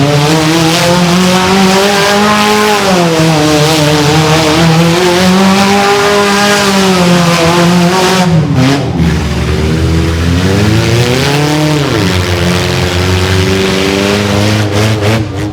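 Mini monster truck engine revving hard, its pitch repeatedly climbing and falling as the truck is driven, with two deep drops and recoveries in the second half; it falls off right at the end.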